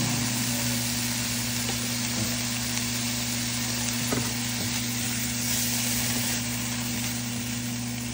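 Shredded chicken sizzling in a hot nonstick frying pan, a steady hiss over a constant low hum. A spatula comes in and moves the chicken in the second half, with a small tap about four seconds in.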